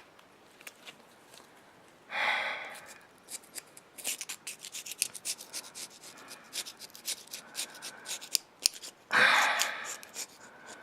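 Razor blade scraper scraping carbon deposits off an aluminum AMC 4.0 piston: a quick run of short scratchy strokes, with two longer, louder scrapes about two seconds in and near the end.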